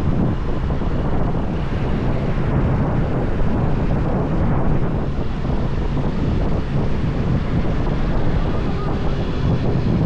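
Steady wind rush on the microphone of a riding motorbike, mixed with the rumble of engine and road.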